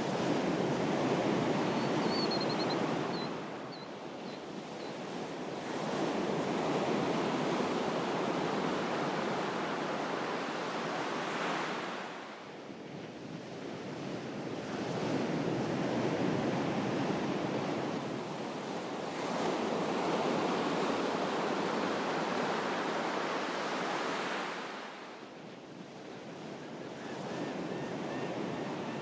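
Ocean surf: waves wash in and draw back in about five slow surges, each swelling for several seconds and then easing off.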